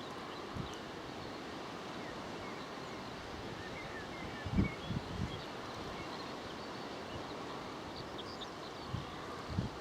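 Outdoor wind noise with a few low gusts buffeting the microphone, about halfway through and again near the end, and faint bird chirps in the background.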